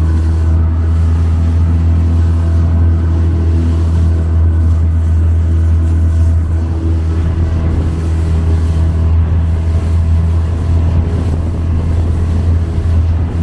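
Motorboat engine running steadily underway, a constant low drone with no change in pitch.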